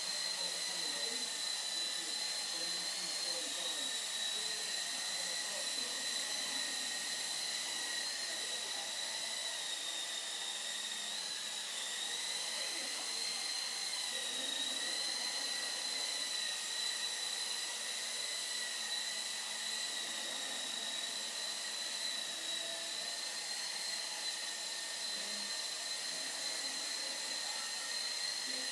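A steady high-pitched whine from a small electric motor, wavering slightly in pitch.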